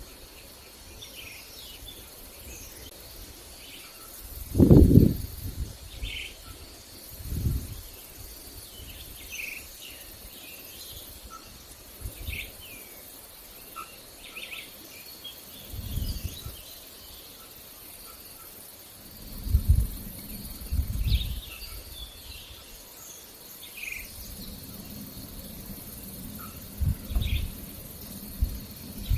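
Outdoor nature ambience: birds chirping in short calls over a steady insect hum. Several low rumbles come and go, the loudest about five seconds in.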